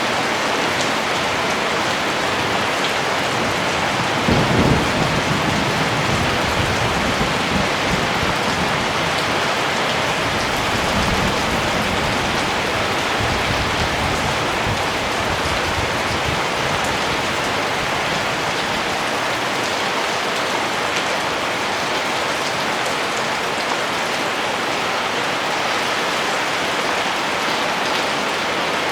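Steady rain falling, with a low rumble of thunder that comes in suddenly about four seconds in and fades away over the next several seconds.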